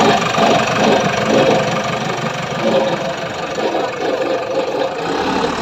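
Tractor diesel engine running loudly just after being started.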